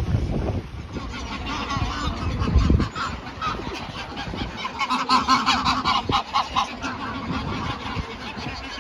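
A flock of geese and swans honking, many overlapping calls.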